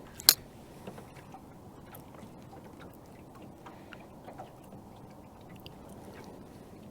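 One sharp, loud knock about a third of a second in, then scattered faint ticks and clicks over low, steady background noise.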